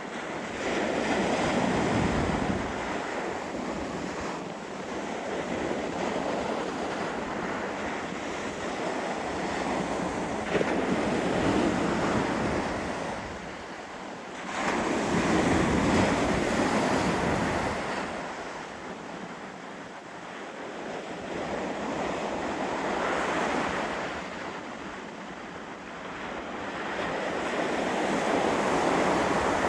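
Ocean waves washing in, the surf swelling and easing every several seconds, with strong wind gusting across the microphone.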